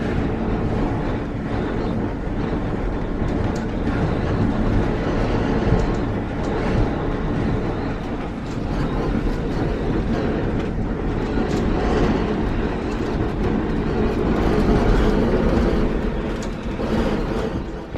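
Strong wind blowing hard and buffeting the microphone: a steady, dense rumble that swells and eases slightly, without let-up.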